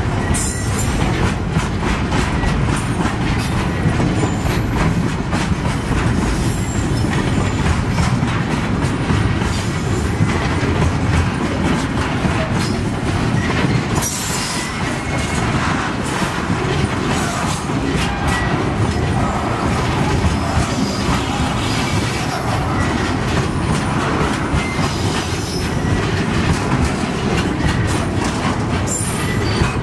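Container wagons of a freight train rolling past, a loud steady rumble with rapid clicking of wheels over rail joints.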